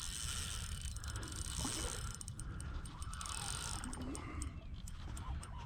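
Spinning fishing reel clicking and ratcheting while a hooked smallmouth bass is fought, with irregular clicks over a steady low rumble.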